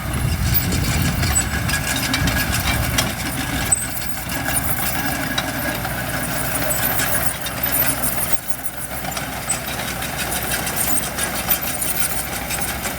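Diesel engine of heavy earthmoving equipment running steadily. The low rumble is strongest in the first few seconds and dips briefly a little past eight seconds.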